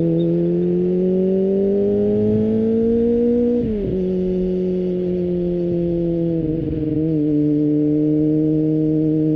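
Kawasaki ZX-25R's 250cc inline-four with an Akrapovic exhaust, under way. The engine note climbs steadily, then drops sharply about four seconds in, as at an upshift. It holds a steady high-revving pitch after that, with a brief dip near seven seconds.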